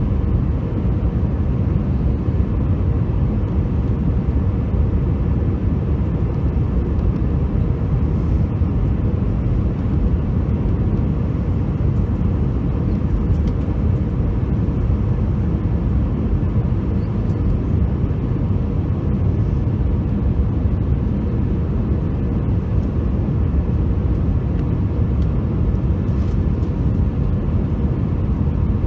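Steady cabin noise of an Airbus A321 airliner in flight, a deep even rumble of engines and airflow with a faint steady hum above it.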